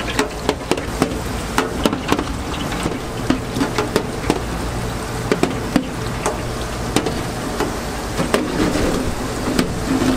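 Kitchen work at a donut counter: irregular sharp clicks and knocks of utensils, two or three a second, over a steady low hum.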